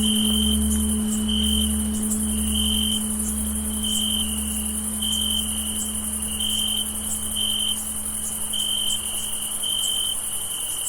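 Crickets chirping in short trills about once a second over a steady high insect buzz, while the low hum of a tolled bell dies away, fading out about nine seconds in.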